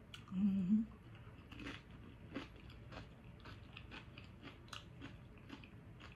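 A person chewing a crunchy mouthful of burrito bowl close to the microphone, with irregular crisp crunches about once or twice a second. A short hummed "mm" comes from her about half a second in.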